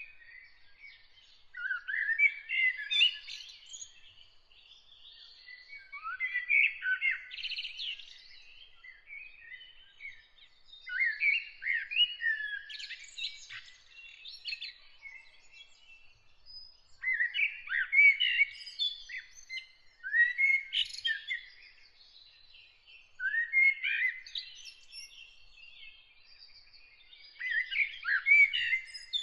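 A songbird singing in short phrases of rapid, varied notes, each one to two seconds long, about seven phrases with short pauses between. A faint steady high tone runs behind them.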